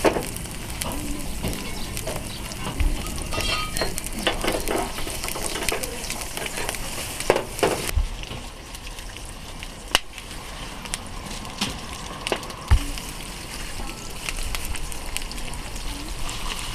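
Food sizzling and frying in a hot pan, a steady hiss broken by a few sharp clicks of utensils against the pan.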